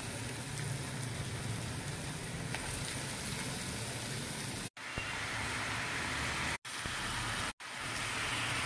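Steady sizzling of mushrooms frying in hot onion-tomato masala in a kadai. It cuts out briefly three times.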